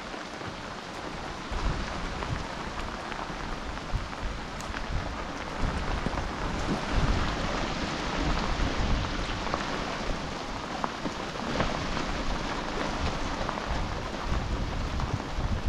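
Heavy rain of big fat drops falling on open water and on a small boat, a steady hiss with scattered drop ticks and a low rumble underneath.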